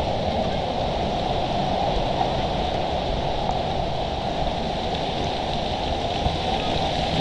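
Steady rush of running water, with no single splash or break standing out.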